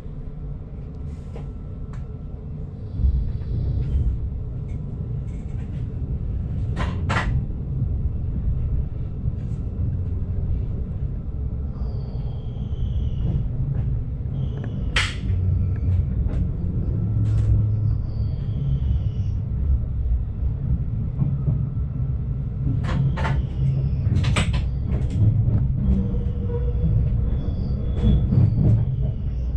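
Stadler GTW diesel multiple unit heard from inside the driver's cab while shunting at low speed: a steady low rumble of the engine and running gear, with a few sharp clacks as the wheels run over rail joints and switches.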